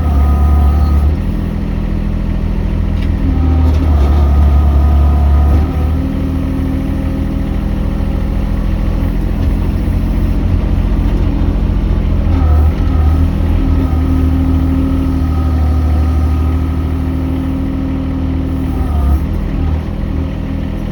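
An engine running steadily, its note dropping and rising again a few times as the load changes.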